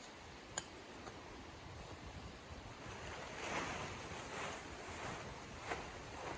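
Wind gusting through a snowstorm, swelling about halfway through, with a sharp click near the start and another near the end.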